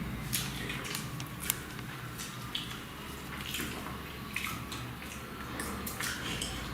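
People eating parotta and duck curry by hand: irregular wet smacking, squishing and chewing sounds with scattered sharp little clicks.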